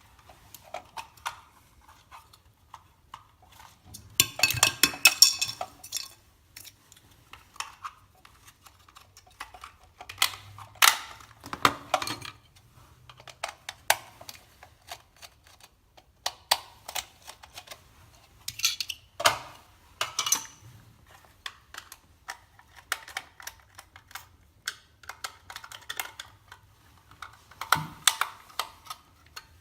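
Irregular small clicks, taps and rattles of hands working on the wiring of a low-voltage LED transformer, with a longer burst of rattling about four seconds in.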